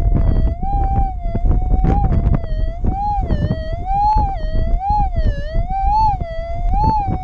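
Minelab GPZ 7000 metal detector's threshold tone, a steady electronic hum whose pitch swings up and down about once a second as the coil is swept over the ground. Loud wind buffeting the microphone runs underneath.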